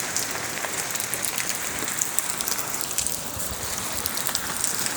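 Heavy rain pouring steadily: a dense hiss dotted with the patter of drops hitting nearby surfaces.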